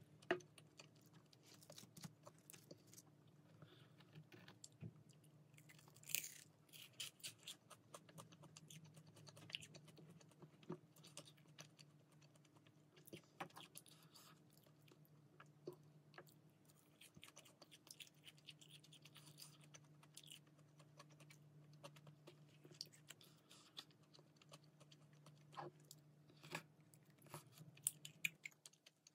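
Quiet close-up eating sounds: fried chicken being chewed and crunched, with scattered sharp clicks, over a faint steady low hum.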